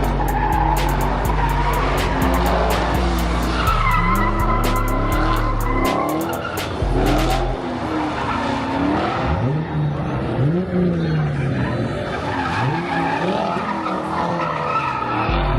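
Car engines revving up and down and tyres squealing in a burnout, over hip-hop music with a heavy bass and hi-hat beat. The beat cuts out about halfway through and comes back near the end.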